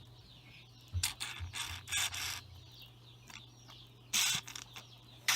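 Short scraping and rubbing handling noises, a few in a row about a second in, another just after four seconds and a sharp click near the end, as 3-in-1 oil is worked onto a seized alternator, over a low steady hum.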